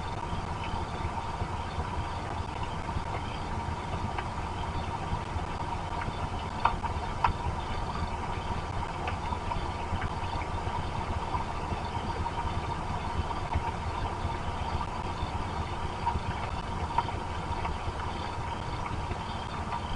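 Steady rain noise on the outdoor wildlife-camera microphone: an even low rumble with scattered small ticks of drops, two sharper ones about a third of the way in, over a faint steady tone.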